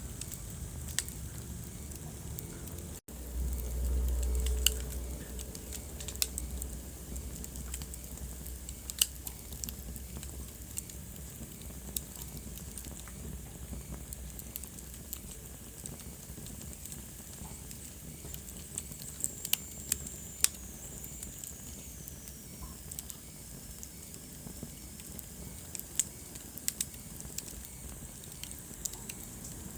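Wood fire burning in a fireplace, crackling with irregular sharp pops over a steady low rumble. A deeper rumble swells for a couple of seconds about three seconds in, and a faint high whistle slides down in pitch around the middle.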